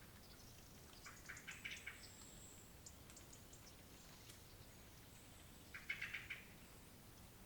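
Songbird scolding calls: a quick cluster of sharp notes about a second in and another louder cluster around six seconds in, with a thin, high drawn-out whistle in between. The recordist takes the caller for a blackcap, most likely, calling angrily.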